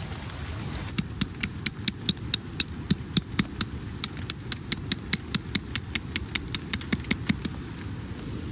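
Steady rain noise, with a quick, even series of sharp clicks, about four a second, starting about a second in and stopping near the end.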